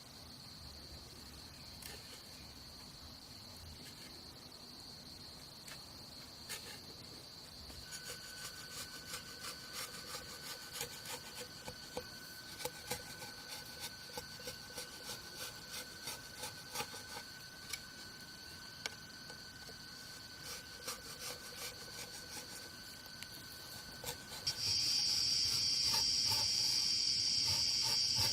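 Insects trilling steadily, with a run of rhythmic scraping strokes, about two a second, starting about eight seconds in. Near the end a much louder, high insect trill starts up suddenly.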